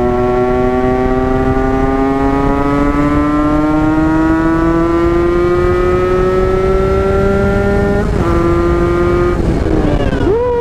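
Yamaha RX-King two-stroke single-cylinder engine pulling under acceleration, its pitch climbing steadily for about eight seconds. It drops suddenly at a gear change, then rises and falls sharply near the end, over wind rush.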